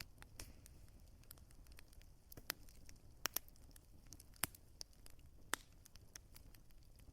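Wood fire crackling: irregular sharp snaps and pops of burning logs over a low, steady rumble, with a few louder pops standing out.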